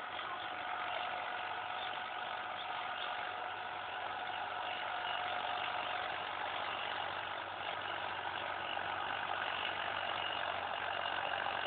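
Agri King tractor's engine running steadily.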